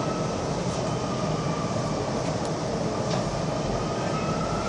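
Metro train running at a steady rumble of wheels on rail, with a faint high whine that dips and then slowly rises in pitch.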